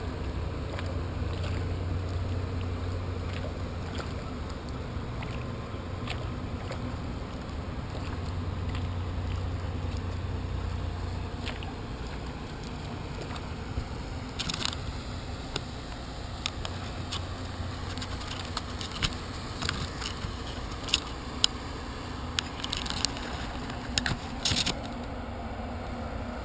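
Kayak on open harbour water under a steady low rumble. From about halfway through come a series of short, sharp splashes and knocks from the paddle working the water.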